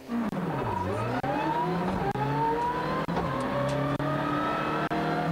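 Rally car engine accelerating hard, its pitch climbing steadily, broken by a few brief dips.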